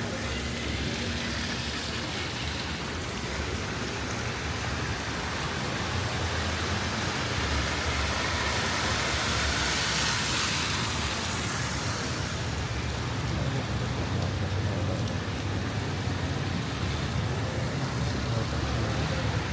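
Steady hiss of rain and wet-road traffic on a flooded city street, with a low engine rumble underneath; a vehicle's tyres swishing through water swell up about halfway and fade again.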